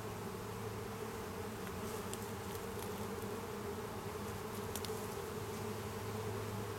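Swarm of honeybees humming steadily around an open hive, a dense continuous drone with a few faint ticks.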